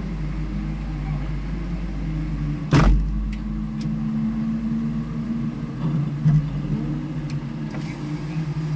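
An engine running steadily, with a single loud thump about three seconds in and a few light clicks.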